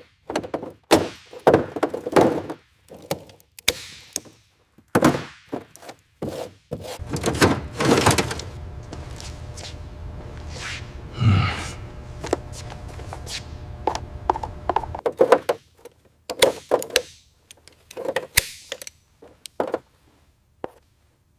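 A series of irregular knocks and thunks, with a low steady hum for several seconds in the middle.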